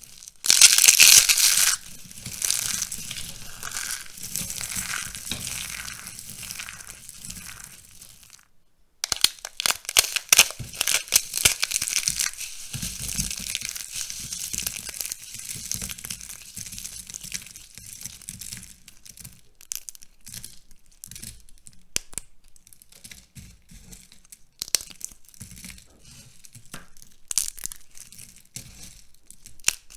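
Dry, crisp soap being crushed by hand, crackling and crumbling in dense runs of small crunches. There is a loud burst about a second in and a short pause near 9 s, then the crunches become sparser and separate toward the end.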